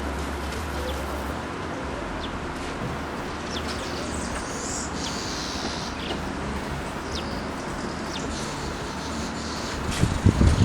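Steady outdoor background noise with a few short, high chirps scattered through it, and a couple of knocks near the end.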